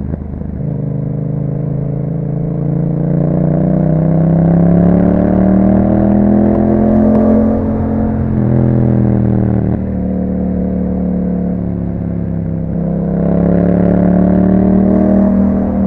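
2021 Yamaha MT-07's 689 cc parallel-twin engine through an Akrapovic exhaust, running under way. The engine note climbs steadily for about seven seconds, drops back around eight seconds in, and climbs again near the end.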